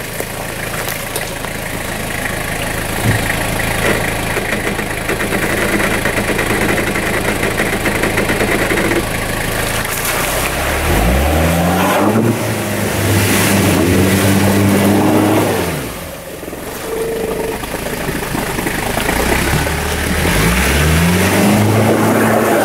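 Off-road SUV engine under load. It runs steadily at first, then revs climb about halfway through and are held high, drop briefly, and climb and hold high again near the end.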